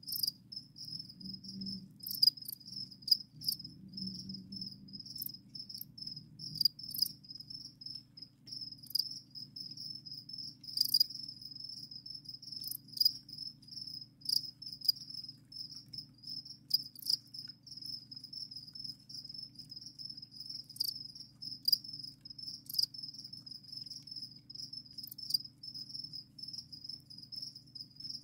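Crickets chirping in a steady, continuous high trill, with frequent sharp clicks over it and a low steady hum underneath.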